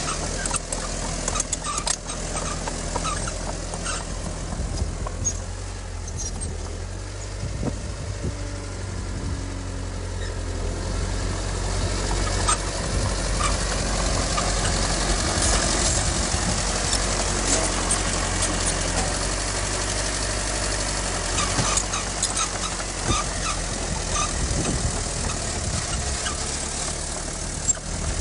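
Diesel engine of heavy earthmoving machinery running steadily, with scattered clanks; it gets louder about halfway through.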